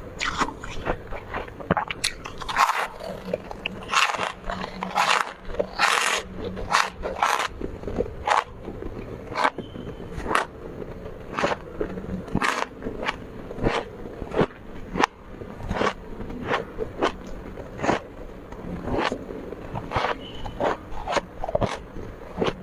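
Close-up biting and chewing of soft, powdery freezer frost: a quick run of short crisp crunches, several a second, with some scraping.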